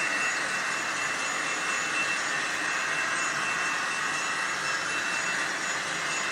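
Model train running on the layout's track: a steady whir of the locomotive motor and wheels rolling on the rails, without a break.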